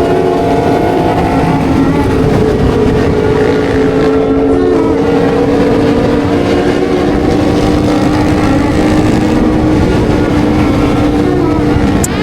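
Sport-bike engines running at high revs together, a loud steady drone whose pitch drifts slowly.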